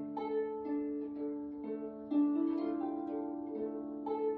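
Instrumental interlude of a folk song: a plucked string instrument playing a melody of notes struck about twice a second, each ringing on over held lower notes.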